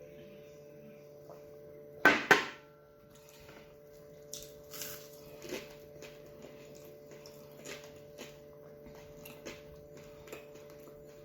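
Dishes clinking: two sharp clinks with a brief ring about two seconds in, then faint scattered clicks and taps, over a steady electrical hum.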